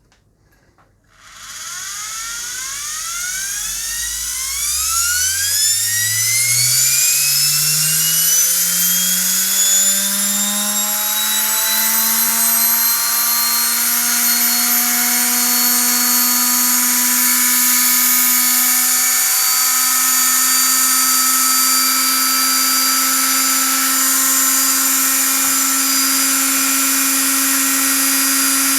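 High-speed electric motor starting about a second in, its whine rising steeply in pitch as it spins up, then levelling off into a steady high-pitched whine at full speed.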